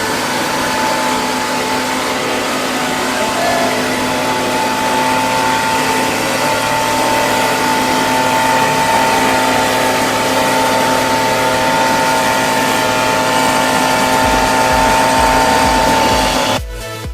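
Leaf blower powering a homemade hovercraft, running steadily with a rushing air noise and a held whine. Music with a beat comes in near the end.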